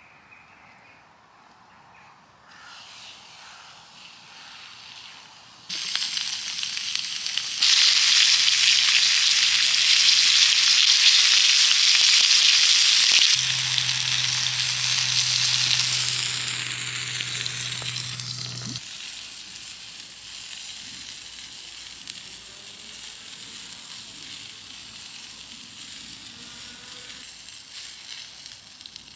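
Food frying in a pan, a loud sizzling hiss that swells in steps during the first eight seconds and is strongest for about eight seconds before dying down gradually.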